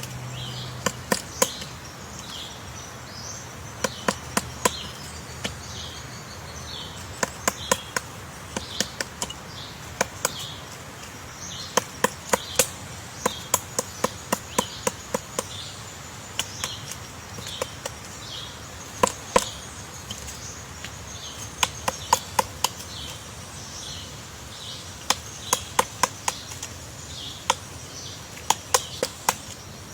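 Woodpecker pecking into tree wood to dig out its nest hole: sharp knocks in quick bursts of two to six, with short pauses between bursts. A high chirp repeats about twice a second behind it.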